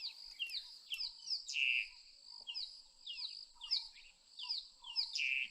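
Birds calling in a quick series of short chirps that slide downward in pitch, about two a second, over a steady high-pitched insect drone.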